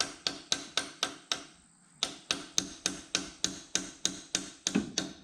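A hammer striking a chisel with sharp ringing blows, about four a second, with a short pause about a second and a half in. The chisel is being driven into the head gasket seam to break loose the stuck cylinder head of a 1973 Opel GT's CIH four-cylinder engine.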